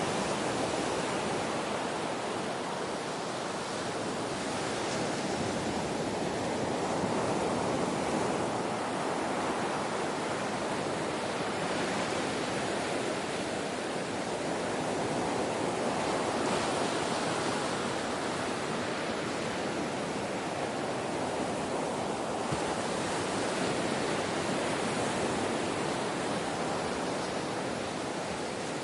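Ocean waves breaking and washing on a shore, a continuous hiss of surf that swells and eases gently every several seconds.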